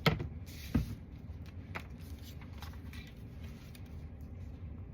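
Paper and craft supplies handled on a tabletop: a sharp knock, a brief rustle, a second knock just under a second in, then light clicks and shuffling over a low steady hum.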